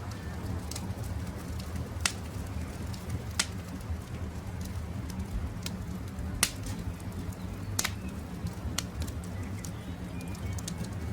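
Wood campfire crackling over a steady low rumble of burning, with many small ticks and a handful of sharp, louder pops scattered through it.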